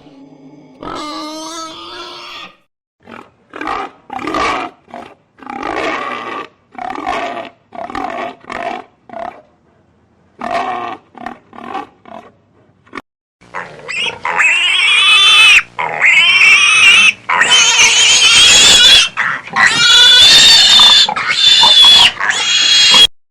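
Domestic pigs grunting in a string of short calls. From about halfway through come loud, drawn-out, high-pitched squeals, one after another, until the sound stops suddenly near the end.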